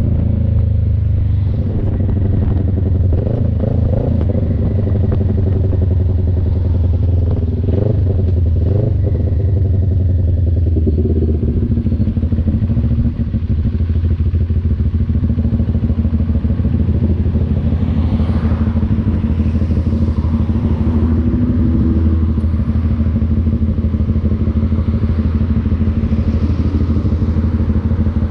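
CF Moto NK400 two-cylinder engine running under way. Its revs rise and fall several times in the first ten seconds or so, then hold fairly steady.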